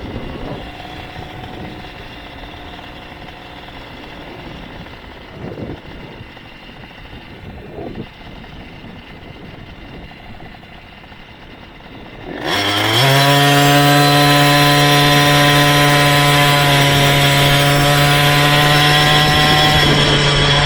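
Small motorized bicycle engine running, faint at first, then about twelve seconds in it suddenly gets loud, rises briefly in pitch and holds a high, steady speed under full throttle.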